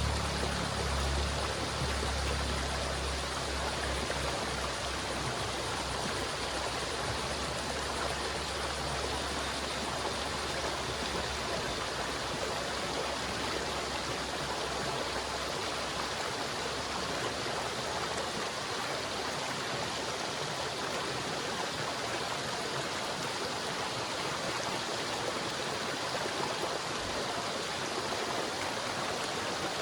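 River water flowing steadily, an even rushing with no breaks. A low rumble underneath fades out about halfway through.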